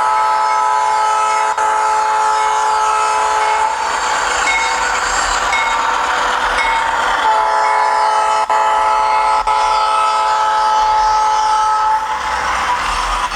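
Sound decoder (ESU LokSound 5) in a Kato HO-scale GE Dash 9-44CW model diesel locomotive playing a multi-note air horn. One long chord runs until nearly four seconds in, and a second long chord sounds from about seven seconds to twelve seconds in, over a steady noisy locomotive running sound.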